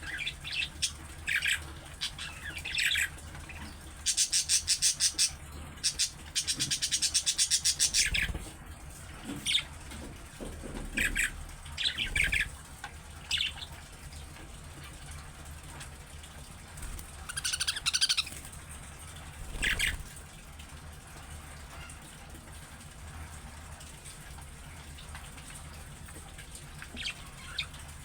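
Budgerigars chirping and chattering in short bursts, with two longer runs of rapid, clicking chatter about four and six seconds in. The calls thin out after about twenty seconds, with a last few chirps near the end.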